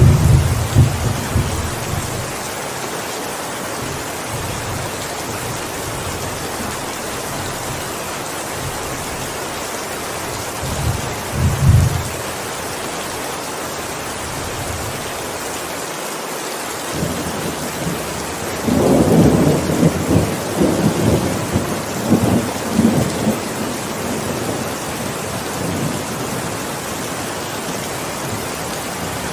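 Steady heavy rain falling with rumbles of thunder: one dying away in the first two seconds, a short one about eleven seconds in, and a longer rolling peal from about eighteen to twenty-four seconds in.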